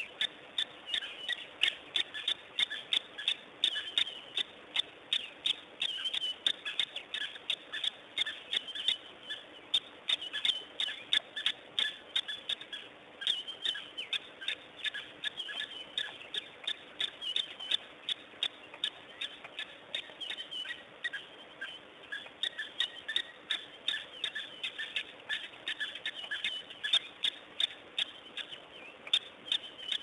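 Many small birds chirping in a fast, irregular chatter of short calls, several a second, over a faint steady hum.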